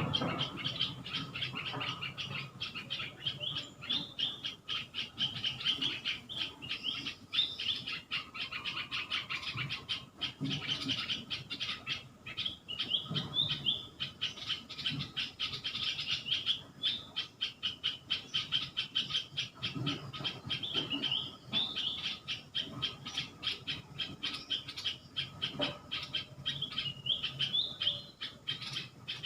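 Tropical rainforest ambience: birds calling over a dense, fast pulsing chorus, with occasional rising and falling calls on top.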